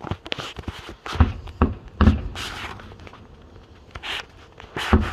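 Aerial fireworks going off: a run of sharp booms and pops about a second in, the loudest boom about two seconds in with a low rumble fading after it, and more sharp pops near the end.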